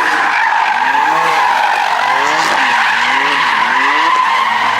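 A car doing a burnout or donuts: tyres screeching steadily while the engine revs rise and fall over and over.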